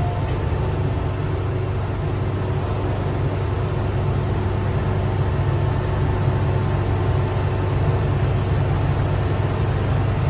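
MTR M-train standing at a station platform with its doors open: a steady low hum from the stationary train, with a faint steady whine above it.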